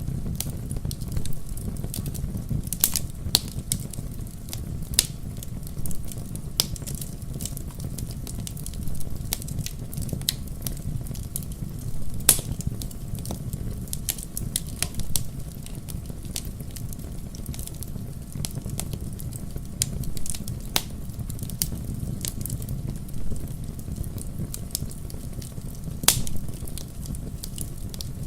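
Wood fire in a fireplace crackling, with frequent small sharp pops and a few louder snaps scattered through, over a low steady rumble.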